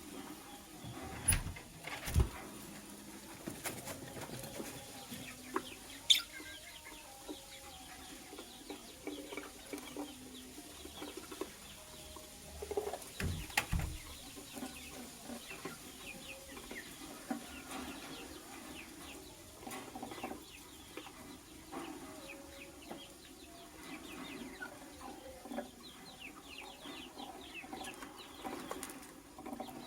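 Lovebird chirping in short, scattered bursts of high chatter, with a few sharp knocks in between.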